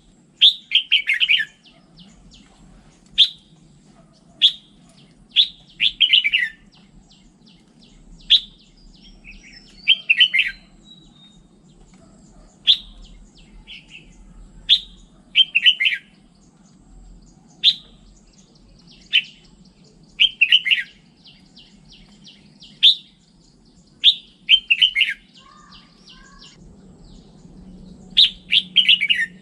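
Red-whiskered bulbul singing: short sharp notes and quick warbled phrases that fall in pitch, repeated every second or two.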